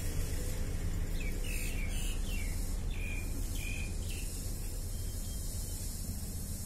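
A bird outside chirping, a run of short repeated chirps lasting about three seconds, over a steady low background rumble.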